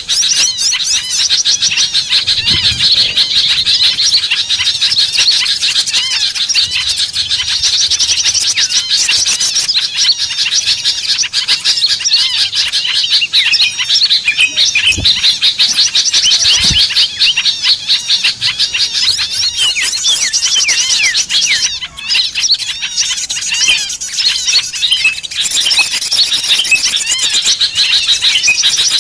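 A dense, continuous chorus of many small songbirds chirping, twittering and trilling at once, a mixed-species bird-lure recording (suara pikat) used to draw wild small birds down.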